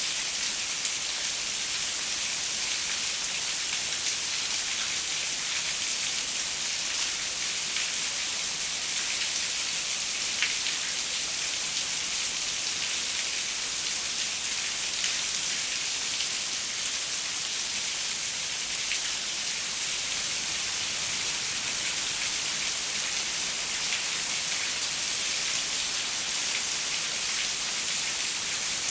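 Steady rain falling on a window: an even hiss with an occasional louder single drop.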